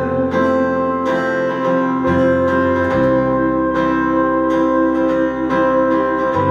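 Instrumental passage of a live song: acoustic guitar strumming about twice a second over sustained bass and chord tones, with no singing.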